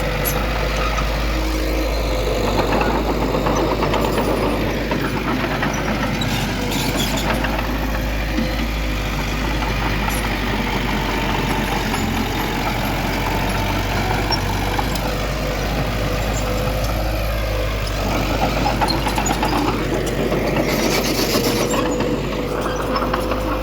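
Heavy diesel earthmoving machinery running steadily, its engine pitch rising and falling at times, with a short hiss near the end.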